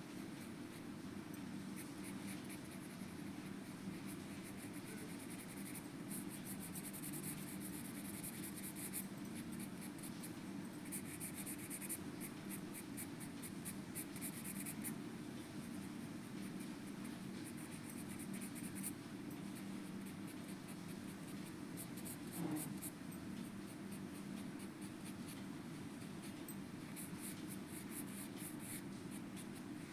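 A pen or pencil scratching on paper as a drawing is made, in stretches of quick strokes with pauses between, over a steady low hum.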